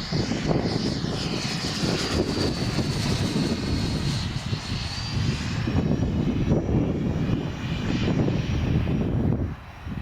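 Electric ducted fans of a Freewing Me-262 RC jet model whining as it flies by, under heavy wind buffeting on the microphone. The whine drifts slightly in pitch and fades after about six seconds, and the sound briefly dips just before the end.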